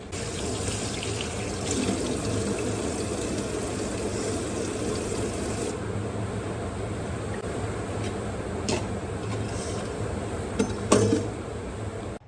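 Water running steadily from a tap into a sink, with a few short knocks near the end.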